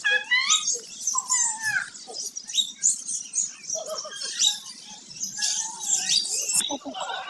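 Many birds chirping and calling at once, short overlapping calls and pitch glides that never stop.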